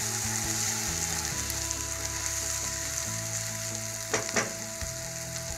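Ground masala paste (vatan) sizzling steadily as it fries in oil in a kadhai while a spatula stirs it, at the stage where it is cooked until the oil separates. About four seconds in the spatula hits the pan twice in quick succession.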